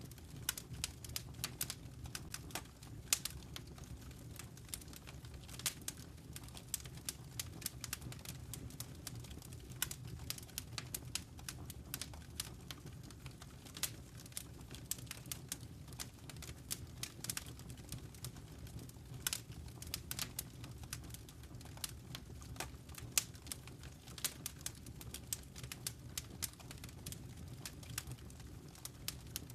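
Fire crackling in a fireplace: a steady stream of irregular sharp pops and snaps over a low, even rumble.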